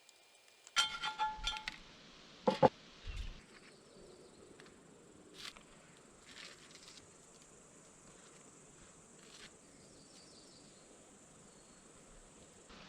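A few quick ringing clinks, then two heavier knocks, followed by a steady high-pitched insect trill that holds for several seconds and cuts off suddenly near the end.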